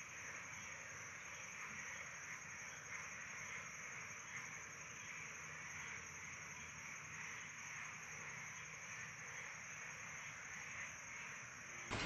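Faint, steady high hiss with no distinct events.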